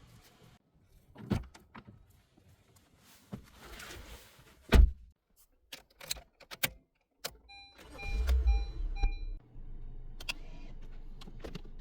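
Clicks and a car door shutting with a thud, then the 2021 Honda HR-V's dashboard chimes a few times as the engine starts about eight seconds in and settles into a steady idle.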